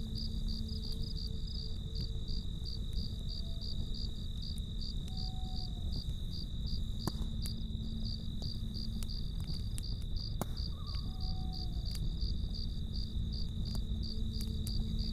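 Crickets chirping in a steady, even pulse of about three chirps a second over the low rumble of a campfire, with a few sharp crackles and pops, the clearest about halfway and two-thirds of the way through.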